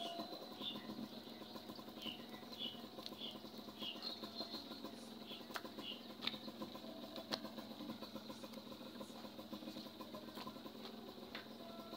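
Motorcycle engine idling steadily, with a faint fast pulsing. A small bird chirps in short repeated notes through the first half.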